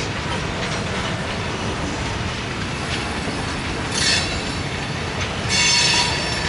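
Grain train of covered hopper cars rolling past with a steady rumble, broken by two short, high metallic wheel squeals, about four seconds in and again near the end, the second louder and longer.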